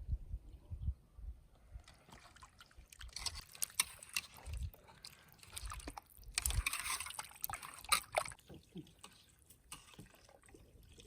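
Wet sloshing and dripping sounds with scattered small clicks and knocks, and two longer splashing hisses, one about three seconds in and a louder one midway.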